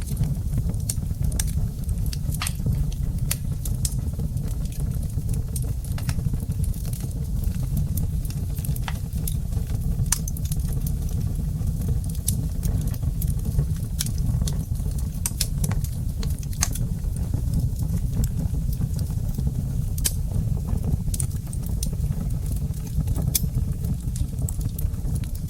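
Wood fire in a fireplace crackling, with irregular sharp pops scattered through it over a steady low rumble.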